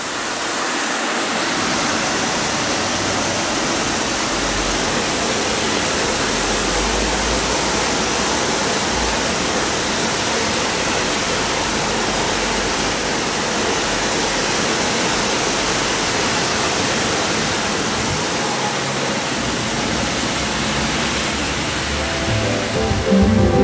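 Heavy rain pouring down in a steady, loud hiss, with a low rumble for a few seconds partway through. Music fades in near the end.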